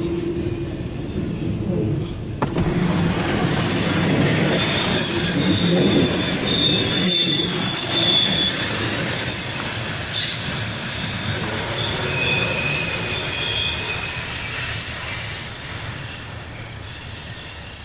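Loaded coal train's cars rolling past, wheel flanges squealing in several high, steady tones as the train turns from the main track onto the west leg of the wye. The rumble and squeal fade over the last few seconds as the train moves away.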